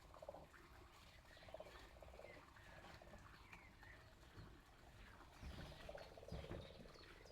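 Faint birds calling: a few short nasal calls, clearest at the start and around six seconds in, with small high chirps between.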